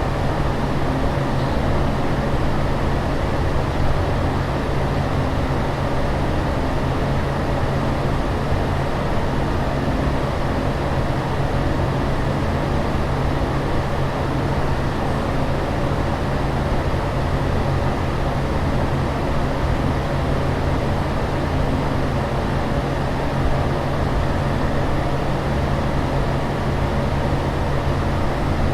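Steady airliner cabin noise: a constant rush of air and engine sound with a low steady hum beneath it, unchanging throughout.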